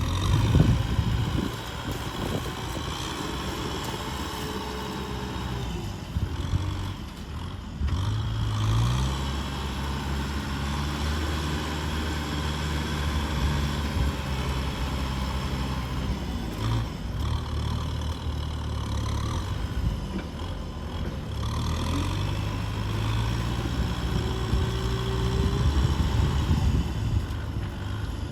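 Tractor engine running steadily, its pitch rising as it revs up about a third of the way in and again later. There is a louder rush of noise in the first second.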